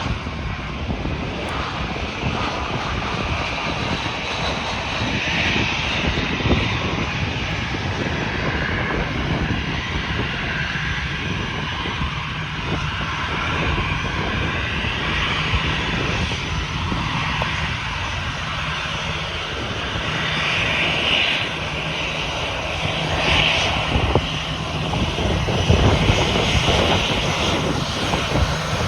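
Airbus A320 airliner's jet engines as it comes in to land, a steady rushing roar with a tone that falls in pitch about two-thirds of the way through as the plane goes by.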